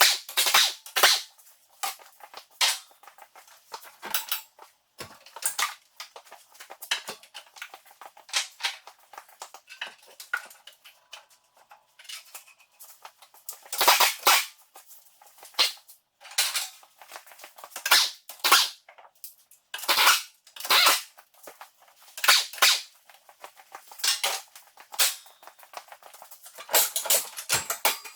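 Hand tools knocking and scraping against the tractor as the split is worked loose. The sound is a string of irregular sharp clicks and knocks, one or two a second, with louder clusters about halfway through and near the end.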